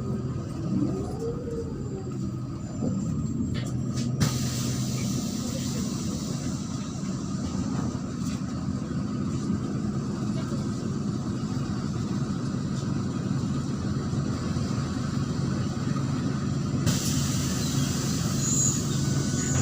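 Interior of a MAZ-103 city bus on the move: the engine's steady low drone with road and body noise. A click comes a little after four seconds in, after which the hiss grows brighter.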